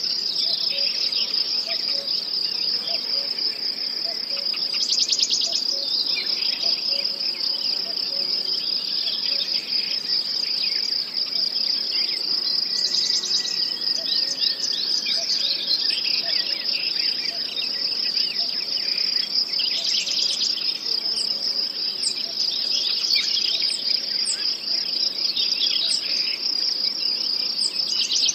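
Crickets chirping in a steady, continuous high trill. Louder pulsed trills come in about every seven or eight seconds, with many short scattered chirps throughout.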